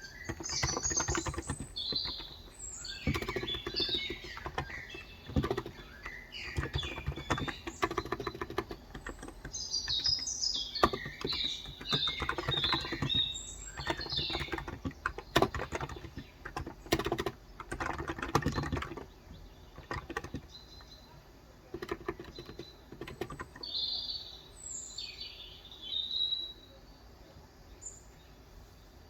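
Typing in bursts on a Cox Endeavor 35g electrostatic capacitive (Topre-style) tenkeyless keyboard, soft rapid keystrokes that die away near the end. Small birds chirp repeatedly over the typing.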